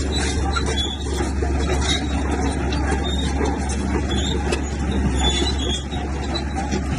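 A bulldozer's diesel engine runs steadily under load, with short high metallic squeaks and a few clanks over the rumble.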